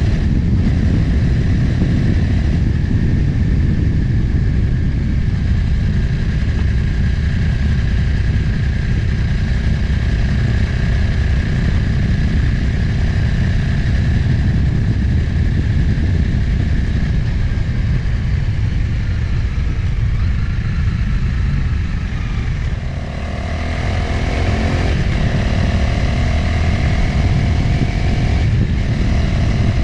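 Motorcycle engine running at road speed under heavy wind rumble on the microphone. About 23 seconds in the sound eases briefly, then the engine note comes through more clearly, with short breaks a few seconds apart like gear changes.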